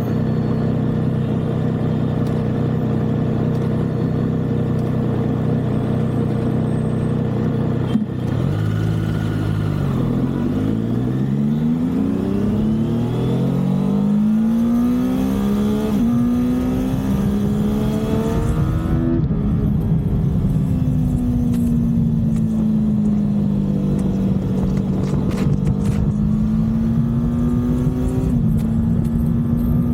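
Motorcycle engine heard from on board. It runs at a steady pitch for about eight seconds, then pulls away with the pitch climbing again and again as it shifts up through the gears. After that it cruises, the pitch rising and falling gently.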